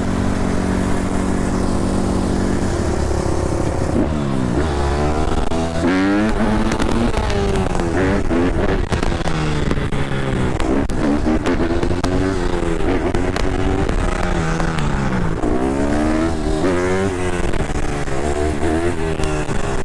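Dirt bike engines running: a steady engine note at first, then from about four seconds in, repeated revving up and back down as the bikes accelerate and shift.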